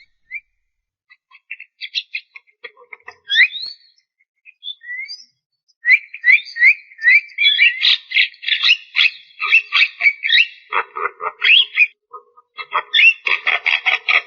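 Javan myna singing: a few scattered whistled notes at first, then from about six seconds in a fast, dense run of chattering notes and rising whistles.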